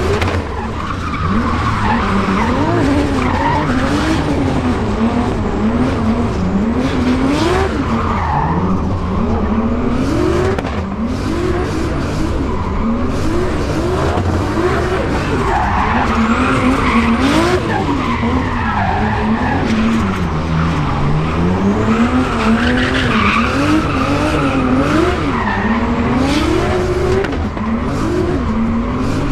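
Turbocharged 2JZ straight-six in a Nissan S14 drift car being driven hard. The revs climb and drop again and again, with tyres screeching as the car drifts.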